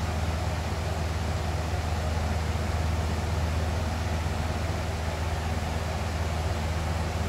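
Box fan running steadily: an even rush of air over a deep, constant low hum.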